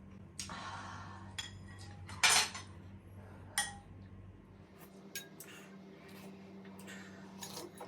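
Metal spoon and utensils scraping and clinking against dishes at a meal, with a few sharp clinks, the loudest a little over two seconds in, and smaller taps later. A low steady hum underneath stops about halfway through.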